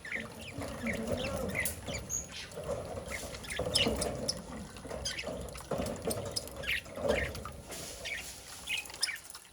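A budgerigar chirping in short, quick notes while water splashes in bouts, as the bird bathes.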